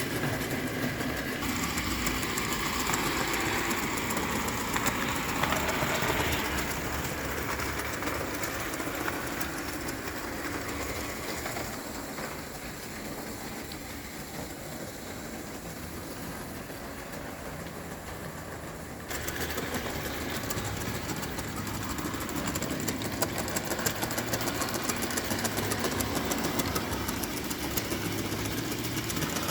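Vintage 0 gauge live steam tinplate locomotive running on its track with a rapid ticking clatter. It fades quieter for a while and then comes back abruptly louder about two-thirds of the way through.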